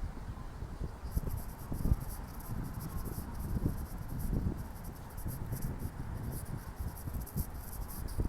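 Insects chirping in a dense, rapid high-pitched pulsing that grows stronger about a second in, over an irregular low rumble.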